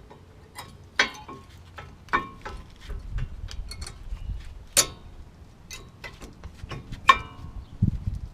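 Metal brake parts clinking and tapping as the pad hardware and brake pads are handled at the caliper bracket. There are four sharper clinks with a short ring, about one, two, five and seven seconds in, and lighter ticks between them.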